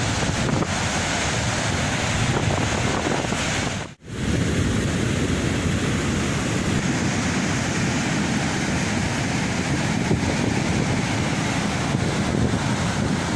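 Rough sea surf washing and breaking, with wind buffeting the microphone. The sound cuts out for a moment about four seconds in, then carries on.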